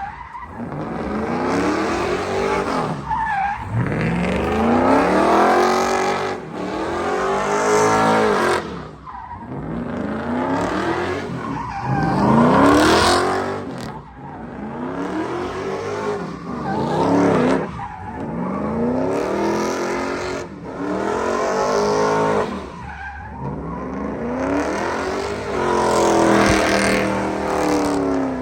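Truck engine revved hard over and over, its pitch climbing and falling about every two to three seconds.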